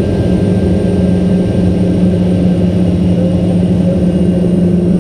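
Pilatus PC-7's Pratt & Whitney PT6A turboprop engine and propeller running steadily, heard from inside the aircraft: a loud, constant low hum with a faint high whine above it.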